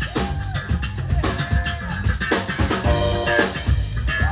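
Live band playing an instrumental passage: a drum kit keeping a steady beat under guitar and bass, with no singing.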